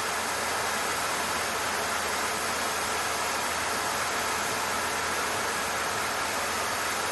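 Steady cockpit noise of a Cessna 152 in flight: its Lycoming O-235 four-cylinder engine running, with airflow over the airframe, as a constant even drone.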